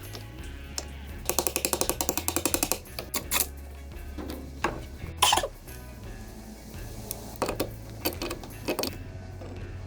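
Socket ratchet wrench clicking in a fast, even run of about a dozen clicks a second, then scattered metal clicks and knocks of tools and parts, during reassembly of the timing and covers of a Peugeot 404 four-cylinder engine. Background music plays underneath.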